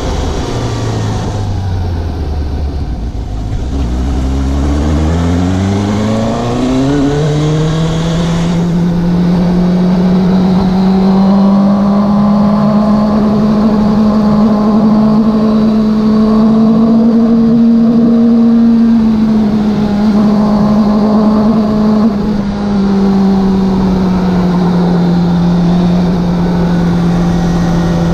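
Suzuki GSX750 motorcycle's inline-four engine heard from the rider's position. The revs drop for a few seconds, then climb hard under acceleration, then settle into a steady cruise. About two-thirds of the way through there is a brief break in the note, then it eases off slightly.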